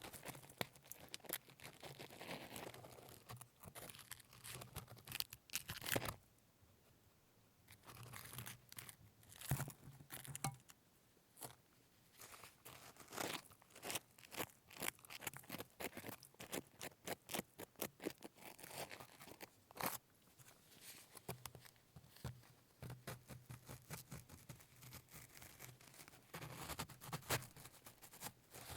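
Baked salt crust around a pork roast being cracked and scraped away: a dense run of crunching crackles and scrapes, with a short pause about six seconds in.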